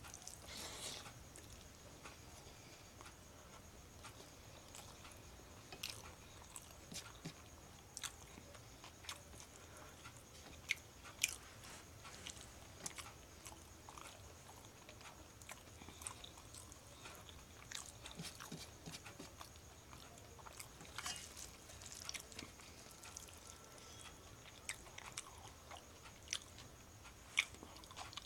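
Faint close-up eating sounds of a person eating rice and curry by hand: chewing and mouth sounds with scattered, irregular sharp clicks, over a faint steady high whine.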